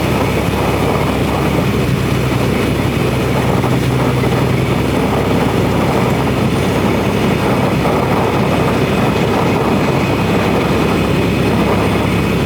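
Steady, loud in-cab drone of a semi truck cruising on the highway: engine hum and road noise with no break.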